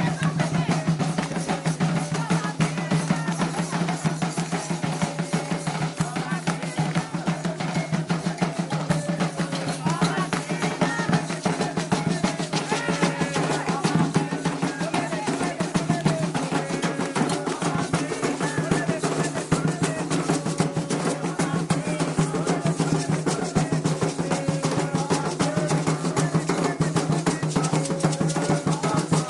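Candomblé atabaque drums playing a fast, dense rhythm without pause, with voices singing a chant over them.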